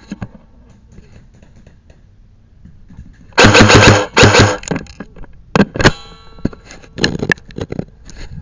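Airsoft electric gun firing two short full-auto bursts, one right after the other, about three and a half seconds in. A few single sharp clicks follow.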